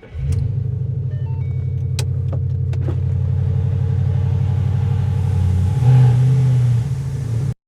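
Ford Coyote 5.0 L V8 running at idle with a steady low rumble, rising briefly about six seconds in as if lightly blipped. The sound cuts off abruptly just before the end.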